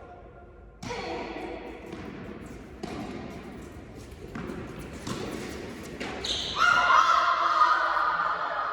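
Tennis ball bouncing and being struck on an indoor court, a handful of sharp echoing impacts a second or two apart. Voices rise loudly near the end.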